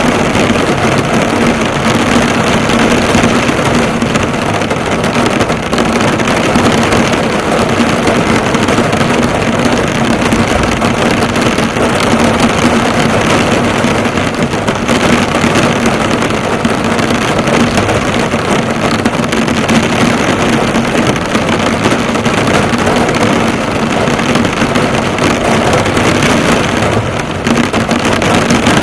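Heavy rain falling on a car, the drops hitting and bouncing off the bonnet in a steady, dense patter. A faint steady low hum runs underneath.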